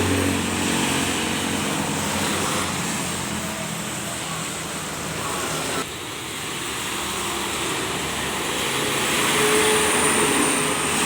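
Road traffic noise with a heavy truck's engine running low at the start. The sound changes abruptly about six seconds in.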